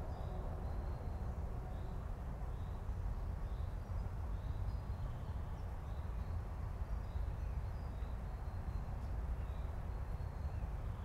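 Birds chirping in short, high notes repeated about twice a second over a steady low rumble outdoors.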